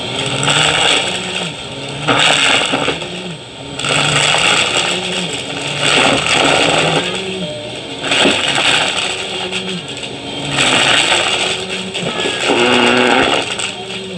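Vacuum cleaner running and pushed fast back and forth, the noise swelling with each stroke about every two seconds.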